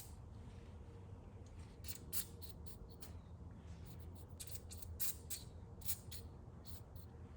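An aerosol can of PB Blaster penetrating oil sprayed in a series of short, faint hisses, working the oil into rusted, seized bolts to loosen them.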